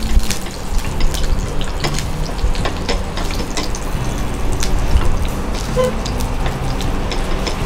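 Chicken keema patties shallow-frying in a little oil over a low flame: a steady sizzle with many small crackles and pops of spattering oil.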